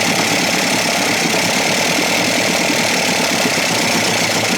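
1956 Evinrude 7.5 hp two-cylinder two-stroke outboard motor running steadily with a rapid, rattly beat. It now appears to be getting spark after its points were adjusted and condensers swapped.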